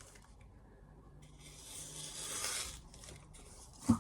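A scraping rub lasting about a second and a half, then a single sharp knock near the end.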